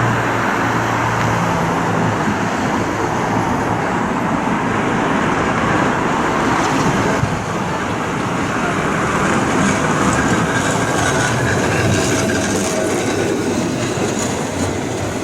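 Tram running along its rails among road traffic: a steady rumble of wheels and rail noise mixed with passing cars.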